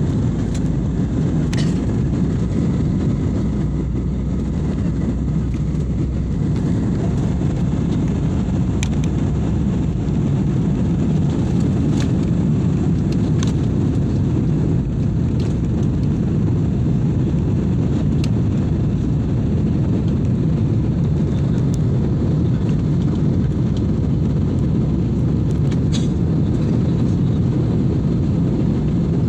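Aircraft engine noise, a steady low rumble with a few faint clicks.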